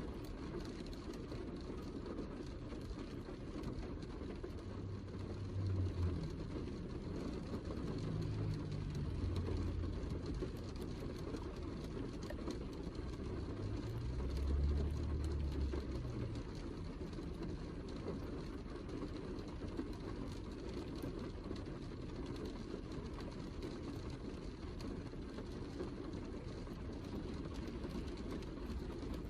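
Heavy rain as a steady, dull, low hiss. Deeper low rumbles swell twice, about five to ten seconds in and again around fifteen seconds.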